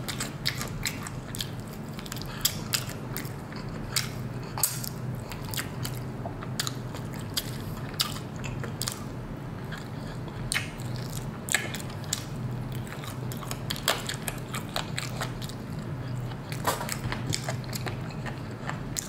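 Close-up chewing and crunching of crispy battered fried chicken wings, with irregular crackly bites all the way through.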